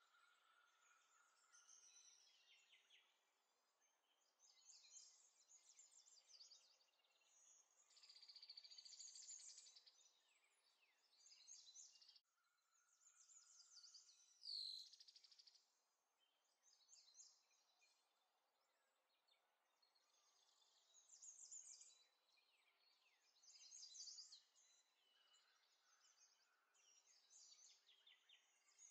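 Near silence with faint birds chirping on and off, and one louder falling call about halfway through.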